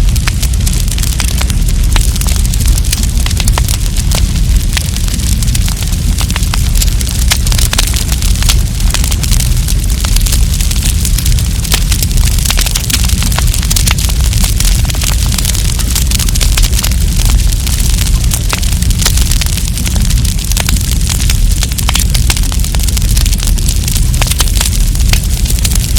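Wood campfire burning, with dense, continuous crackling and popping over a steady low rumble.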